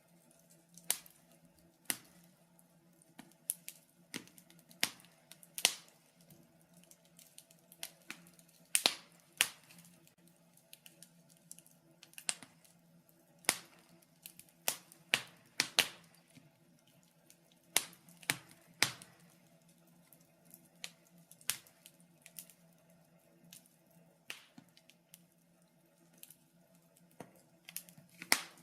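Wood fire crackling in a fireplace: irregular sharp pops and snaps, some louder than others, come a few every second or two over a faint steady hum.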